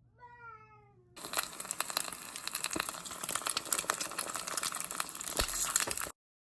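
A short, high call that falls in pitch, then dense crackling and crinkling full of sharp clicks that cuts off abruptly near the end.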